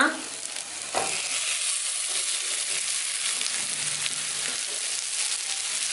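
Marinated chicken pieces dropping into a hot pan of oil, fried onions and tomato, landing with a soft thud about a second in, then sizzling steadily as they start to fry.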